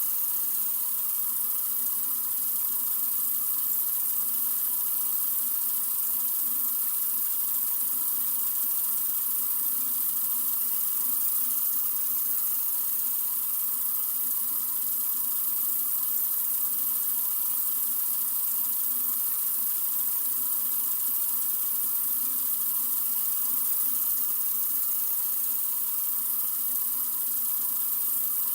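Sink faucet running in a steady stream, a constant hiss of water with no change in flow.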